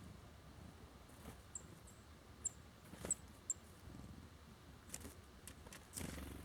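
Faint, short, high-pitched chip calls from small songbirds, about five in quick succession in the first half, with a few light taps and rustles near the birds.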